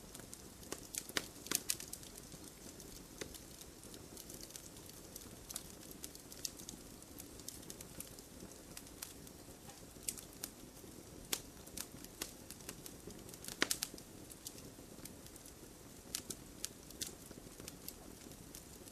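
Wood campfire crackling: irregular sharp pops and snaps over a soft steady hiss of burning. A quick cluster of louder snaps comes about two-thirds of the way through.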